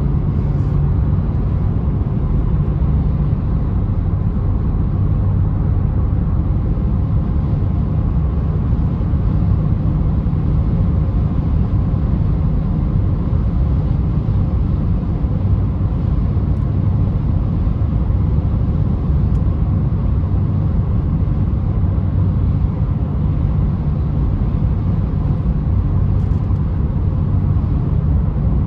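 Citroen C3's 1.4 VTi four-cylinder petrol engine running at steady revs, a low drone that does not change.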